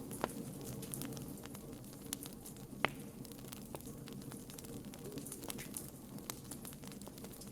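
Wood fire burning, with a low steady rumble of the flames and scattered sharp crackles and pops from the burning wood; one louder pop about three seconds in.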